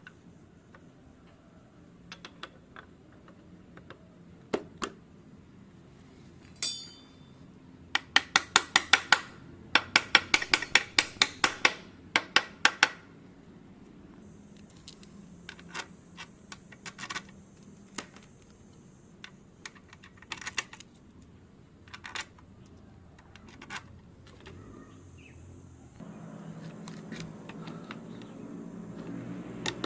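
Metal tools and engine parts clinking and clicking during engine assembly: scattered sharp clinks, one ringing metal clink, and a run of rapid, evenly spaced clicks in the middle. A low background noise comes up near the end.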